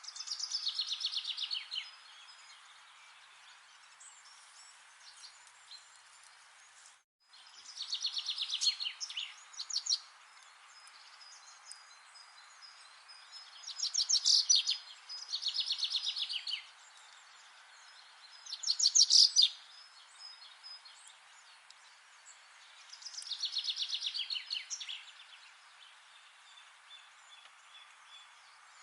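Songbird singing a fast trill of notes that falls in pitch, each song about one to two seconds long, repeated about six times over a steady background hiss. The sound cuts out completely for a moment about seven seconds in.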